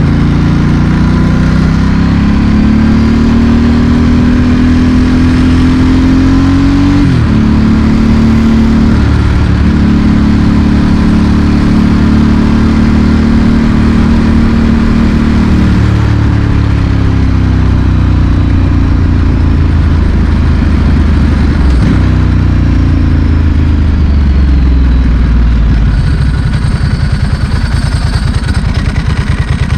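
Ducati Monster S4R's L-twin engine through a straight Mivv exhaust while riding: the revs climb with two quick drops for gear changes, hold steady, then fall away as the bike slows, leaving a low pulsing idle over the last few seconds.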